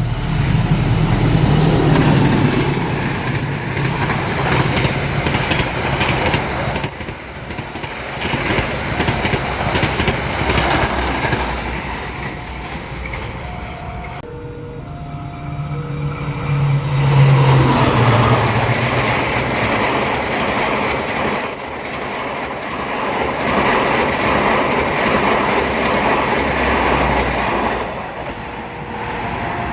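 Train running past on the rails: a continuous rumble and rattle of wheels and cars, swelling louder about two seconds in and again past the middle.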